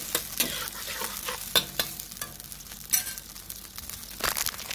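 Blended spice paste sizzling in hot oil in a wok while a metal spatula stirs it, scraping and clicking against the pan at irregular moments.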